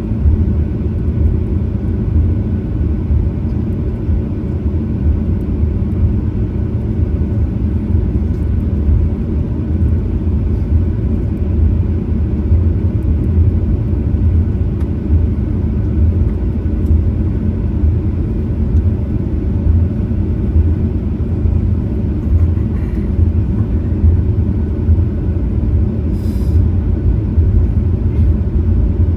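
Steady low rumble inside the cabin of a Boeing 737-900ER, from its CFM56-7B engines and airframe, with no rise or fall in level.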